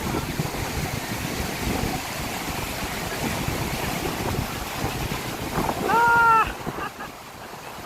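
Strong wind buffeting the microphone over the steady wash of high-tide surf. About six seconds in, a short pitched cry stands out above it, then the wind noise drops a little near the end.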